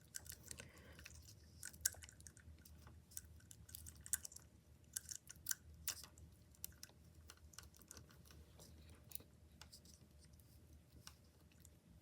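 Plastic pony beads clicking against each other as plastic lacing is pulled through them and tightened: faint, irregular small clicks, thicker in the first half and sparser later.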